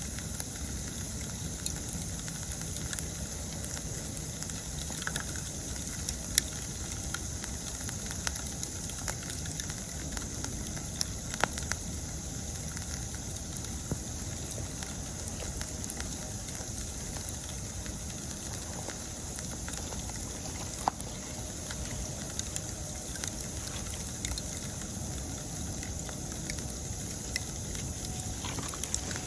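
Wood campfire crackling, with a handful of sharp pops standing out, over a steady high-pitched chorus of autumn insects.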